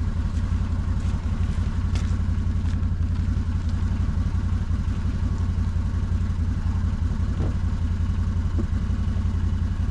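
Engine of a work machine running steadily at one speed, a low, evenly pulsing drone, with a few faint ticks.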